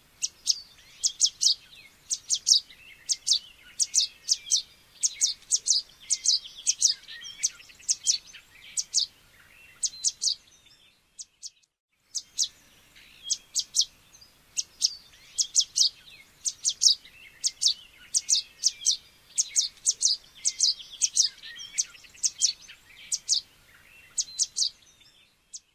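Yellow warblers giving many short, sharp, high chip notes in quick runs, with a brief break about eleven seconds in.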